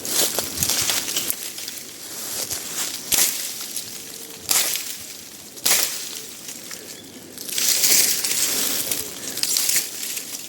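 Footsteps crunching and rustling through dry leaves and undergrowth, in uneven loud crackles a second or more apart.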